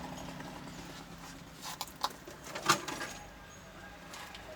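A few light knocks and taps from handling a TV's plastic back cover, spaced about a second apart over a faint background.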